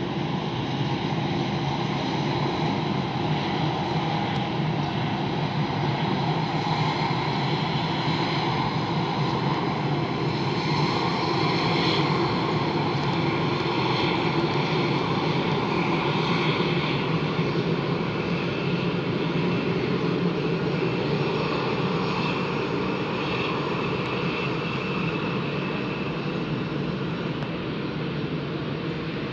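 Jet airliner engines running steadily with a high whine; the noise grows a little louder partway through, then eases slightly.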